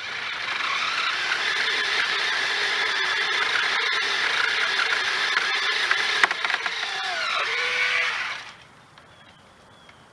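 Battery-powered Ryobi Expand-it 10-inch pole saw running with a steady high whine, its chain driven by the 40-volt trimmer motor. It stops suddenly about eight and a half seconds in.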